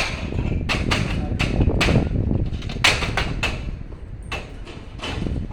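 A series of sharp knocks and clicks, about a dozen, fewer near the end, over a low rumble of wind on the microphone.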